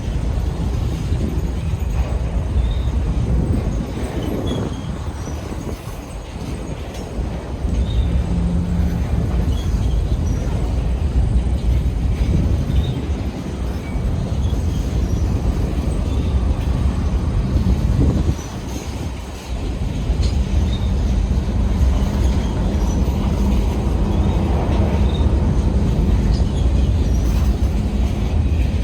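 Union Pacific freight train rolling past on the rails, a steady loud rumble of wheels and cars with a faint hum, easing briefly about two-thirds of the way through.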